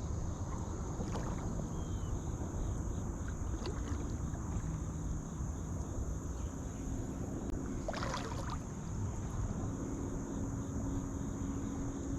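Steady high-pitched chirring of crickets over a low outdoor rumble, with a brief noisy rustle about eight seconds in.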